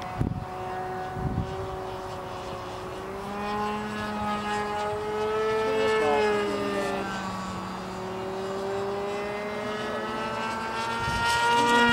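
Irvine 53 nitro glow engine of an RC model airplane running at high power, a buzzing note whose pitch swells up and drops away about halfway through and rises again near the end as the plane passes.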